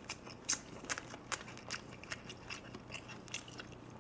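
A person chewing food close to a microphone: irregular soft clicks and wet smacks of the mouth, a few each second.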